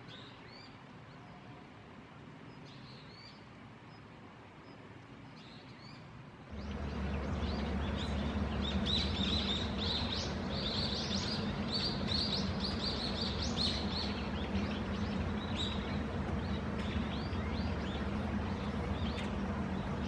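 Small birds chirping. A few faint calls come first; about six seconds in, a steady low hum starts underneath and the chirps turn into a dense run of rapid high notes that thins out toward the end.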